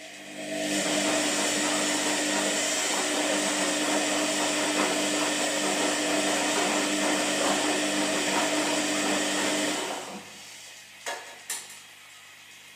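Washing machine motor whirring steadily for about nine seconds, then stopping, followed by two short clicks.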